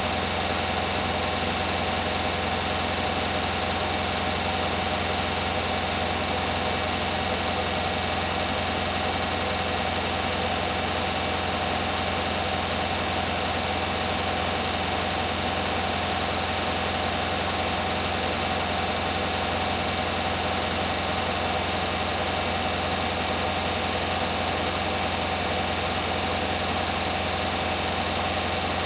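Beko WTK104121W washing machine spinning steadily at high speed on its 1400 rpm spin cycle: a constant low hum with a steady whine over it.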